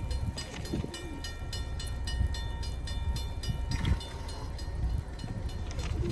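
Amtrak train running past with a steady low rumble. Over it rings a rapid, evenly repeated ringing of several high tones, a few strokes a second.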